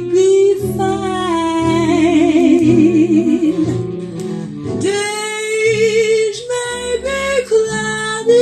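Recorded female jazz vocal with instrumental accompaniment: the singer holds long notes with a wide vibrato, a phrase ending about four seconds in before the next one begins.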